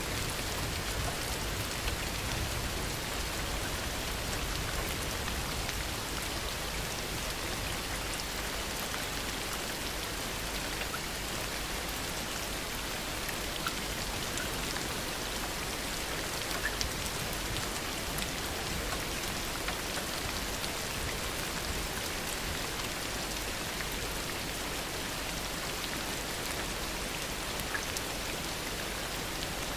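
Heavy rain falling steadily, a dense even hiss with occasional single drops standing out.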